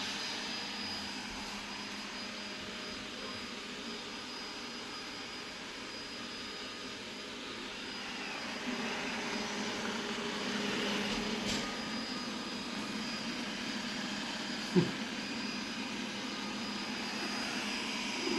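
A 360 robot vacuum cleaner running at its lowest suction setting, a steady whirr with a faint high whine, as it maps the room. A single sharp knock about 15 seconds in.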